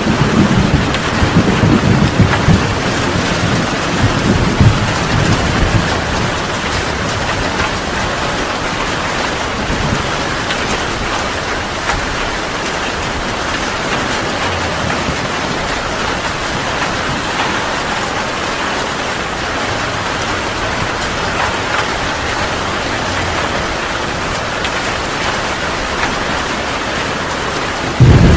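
Heavy rain falling steadily, with a low rumble of thunder that dies away over the first few seconds. A loud thunder rumble cuts in suddenly at the very end.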